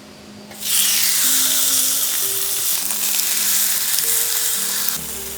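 Food sizzling on a hot camping grill plate. It starts suddenly less than a second in, as the food goes onto the hot plate, and carries on as a loud steady hiss that eases slightly near the end.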